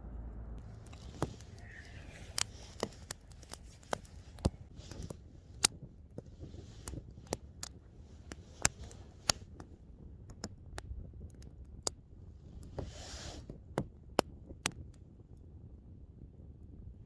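Wood fire crackling, with sharp irregular pops and snaps over a low steady rumble, and a brief hiss about thirteen seconds in.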